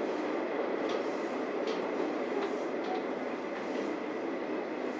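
Kiha 40 series diesel railcar running on the track: a steady running noise with several sharp clicks of the wheels over rail joints.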